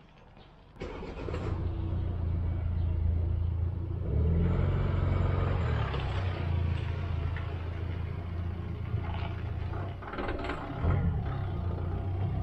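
A car engine starts about a second in and runs with a steady low hum. It gets louder from about four seconds in as the car moves off slowly.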